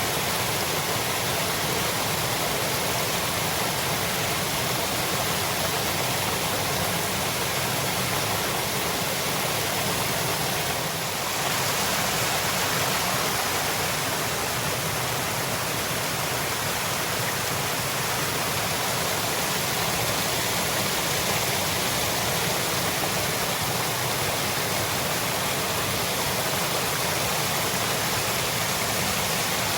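Waterfall water pouring and splashing in a steady rush. The sound shifts slightly and turns a little brighter about eleven seconds in.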